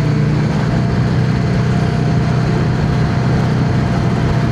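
Yamaha XVS650's air-cooled V-twin engine running at a steady, even pitch while the motorcycle is ridden, over a continuous rush of wind and road noise.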